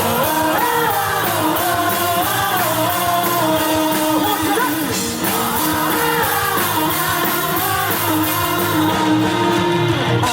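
Live rock band playing, with a sung melody carried in two long phrases over the band.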